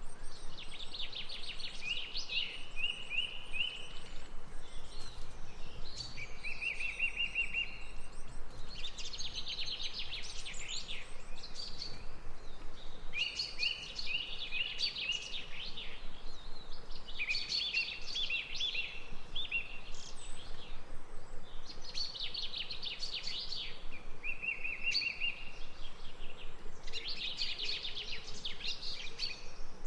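A songbird singing a short phrase about every three seconds, many phrases ending in a lower, even trill, over a steady low background hiss.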